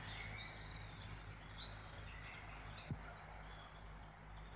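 Faint birdsong, many short chirps, over a steady background hiss and low hum, with a single soft tap about three seconds in.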